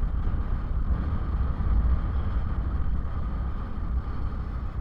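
Motorcycle on the move, with wind rumbling on the microphone over a steady road and engine noise.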